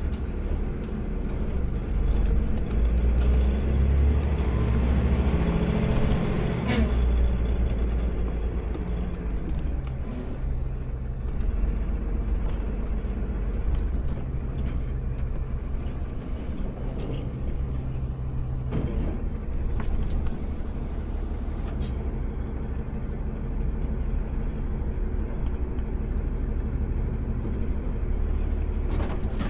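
Engine of an automated sideload garbage truck running, heard from the cab. It rises in revs for a few seconds early on, then settles, with two sharp hissing or clanking sounds.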